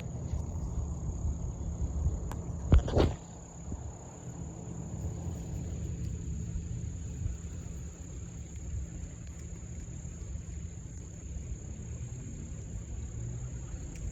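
Steady high-pitched buzz of insects, with a low rumble underneath and two sharp knocks close together about three seconds in.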